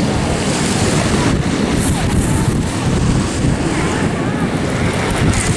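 BAE Hawk T1 jets' Adour turbofans heard as a steady low roar, mixed with wind buffeting the microphone.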